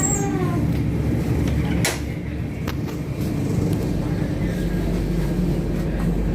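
Steady low rumble inside a Janshatabdi Express AC chair car coach on the move, with one sharp knock about two seconds in.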